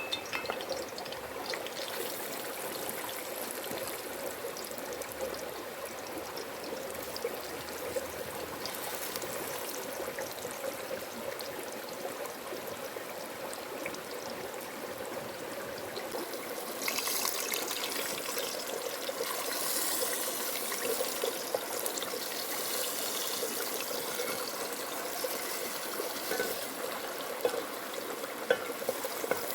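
Chicken pieces sizzling and crackling as they fry in hot oil in a pan, a steady sizzle that grows a little louder and brighter about halfway through, with a few sharp pops near the end.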